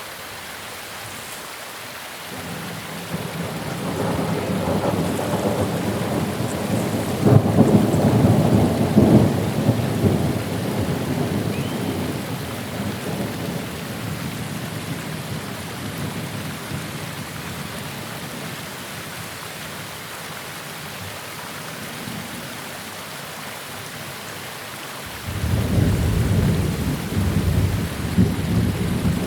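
Steady rain falling, with thunder rumbling twice: a long low roll that builds a few seconds in, peaks and slowly dies away, and a second rumble that breaks in suddenly near the end.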